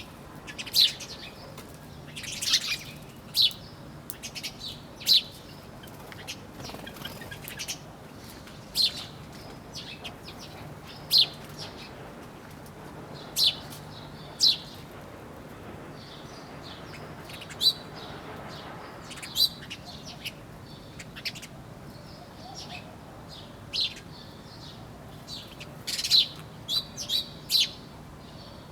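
Small birds chirping: short, sharp, high chirps at irregular intervals of about a second, with a quick run of several chirps near the end, over a steady soft background hiss.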